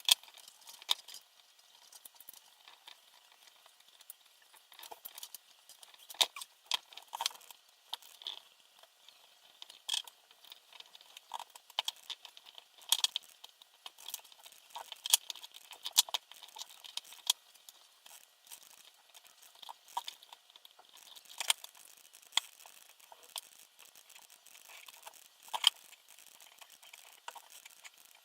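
Small parts and tools being handled during hand assembly of a multirotor frame: irregular light clicks, taps and clatter, a few sharper knocks standing out.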